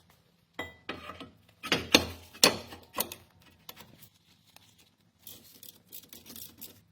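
Several separate sharp clicks and knocks over the first three seconds, then a faint rustling near the end: brake parts and tools being handled during a rear brake pad and rotor change.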